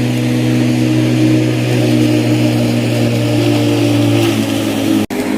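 Lawn mower running with a steady drone whose pitch shifts slightly, briefly cutting out for an instant about five seconds in.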